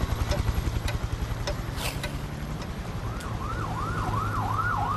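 A vacuum cleaner runs with a steady low motor hum. About three seconds in, a siren-like wail joins it, rising and falling about three times a second.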